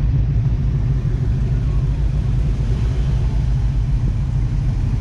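Engine of a classic car or old truck running steadily as it drives slowly past, a low, even engine sound.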